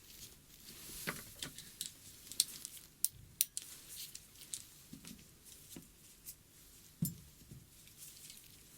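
ASMR ear-cleaning sounds close to the microphone: irregular soft scratching, rubbing and little clicks, with a few sharper ticks near the middle.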